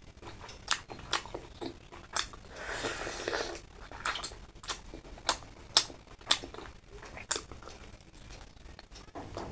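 A person eating close to the microphone: chewing with irregular sharp wet mouth clicks and smacks, and a longer noisy stretch about three seconds in.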